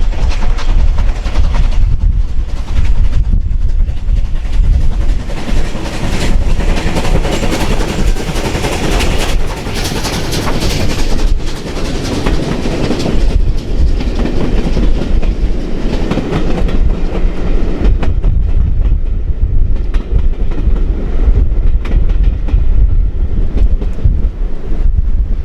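A train running past on the line, its carriage wheels clicking over the rail joints. It grows loudest midway through, then fades away over the last several seconds.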